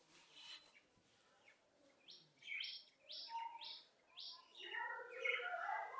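A songbird calling: a run of about five short, high, falling chirps, roughly two a second, then a busier run of lower calls near the end.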